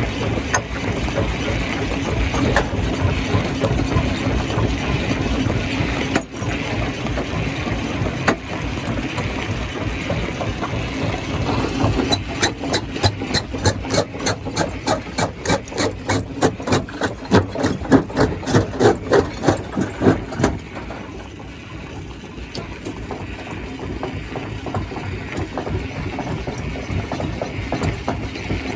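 Stone crushing plant machinery running with a steady engine-like drone. About twelve seconds in, a regular pulsing of about three beats a second builds up, then cuts off suddenly about eight seconds later, leaving a slightly quieter steady machine noise.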